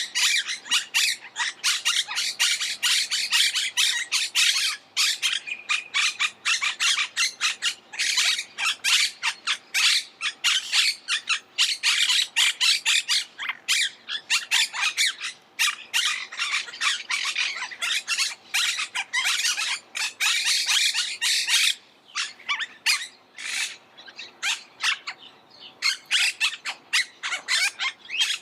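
Monk parakeets calling: a dense, rapid run of overlapping calls, thinning for a few seconds about three-quarters of the way through before picking up again.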